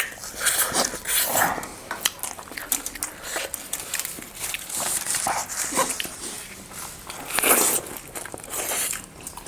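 Close-miked mukbang eating: wet chewing, lip smacks and sucking noises in irregular bursts, the loudest about seven and a half seconds in.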